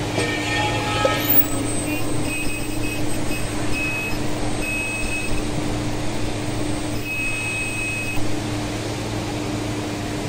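Steady workshop machinery hum with a high whistle that slides up about a second in and holds, plus short high beeping tones repeating from about two to eight seconds in.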